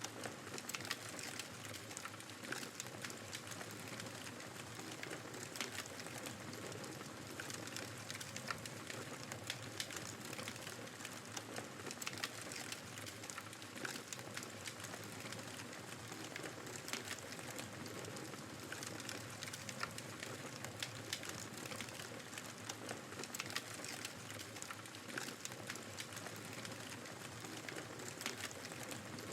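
Wood fire crackling with frequent irregular pops over the steady noise of snowstorm wind.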